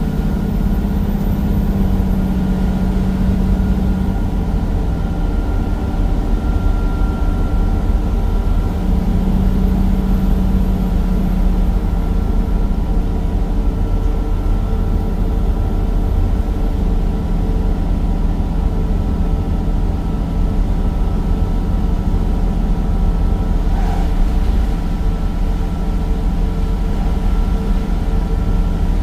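Cummins diesel engine and ZF gearbox of a Temsa Avenue bus running steadily, heard from inside the bus: a continuous drone with a faint high whine over it. A brief knock sounds about 24 seconds in.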